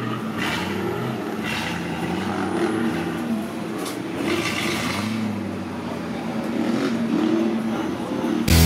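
Nissan Patrol 4x4's engine revving up and down under load as it climbs a steep dirt slope, with several short bursts of noise. Rock music cuts in abruptly at the very end.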